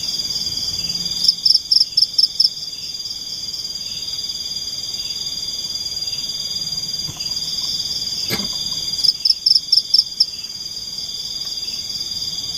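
A forest insect chorus keeps up a steady high-pitched trill. Twice, a louder call of about six quick pulses stands out, and there is a single sharp click a little past the middle.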